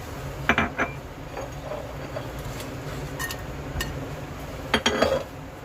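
A metal spoon or utensil clinking against a cooking pan a few times, with two clinks about half a second in, a couple more in the middle and a quick cluster near the end, over a steady low hum.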